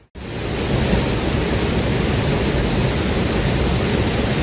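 Loud, steady rush of a swollen river in flood, fast floodwater churning and roaring, starting abruptly just after a cut.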